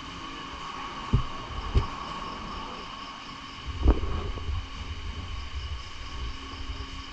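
A steady machine hum made of several fixed tones, with three short low thumps about one, two and four seconds in.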